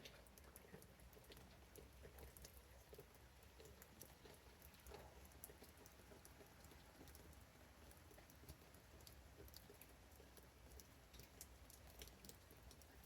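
Faint patter of raindrops, many small scattered drips and ticks over a low hiss.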